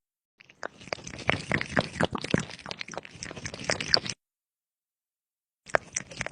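Close crunching and chewing: a dense run of irregular crisp clicks that cuts off abruptly about four seconds in, with a second short spell of crunching near the end.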